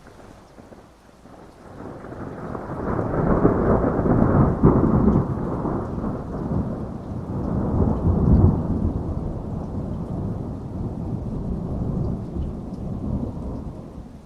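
A long roll of thunder over steady heavy rain. It builds from about two seconds in, peaks twice, and dies away near the end.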